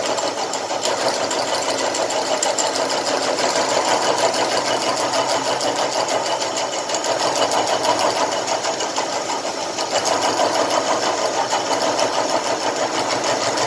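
Milling machine running and cutting metal, a steady fast chatter that keeps up evenly throughout.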